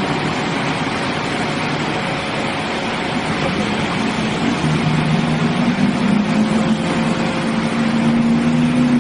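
A truck engine runs under a loud, steady rushing noise. About halfway through, its pitched note comes in, rises a little and then holds steady.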